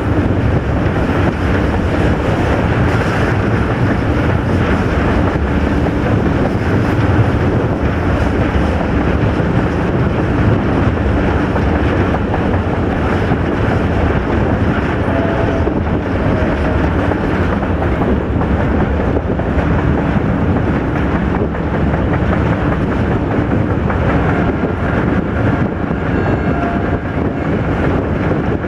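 Steady loud rumble of a train running along the track, heard from on board, with wind buffeting the microphone.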